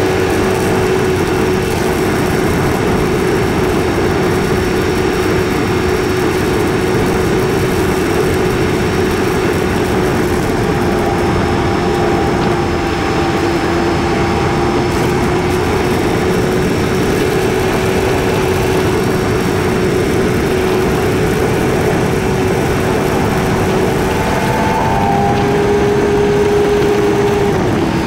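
KTM Duke 250's single-cylinder engine running steadily under way, with the rush of riding noise; the audio plays at double speed, which raises the engine's pitch. The note climbs a little near the end, then drops suddenly just before it ends.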